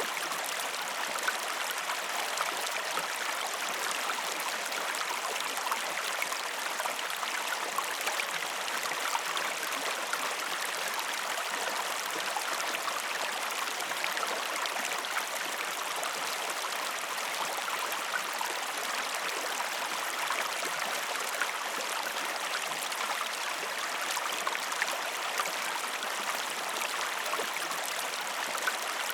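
A stream or river flowing with a steady, even rush and small scattered drips and splashes.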